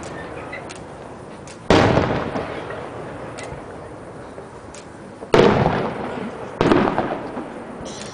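Fireworks display: three aerial shell bursts, each a sharp boom that rolls away over about a second. One comes about two seconds in, the other two close together near the end, with a few faint pops in between.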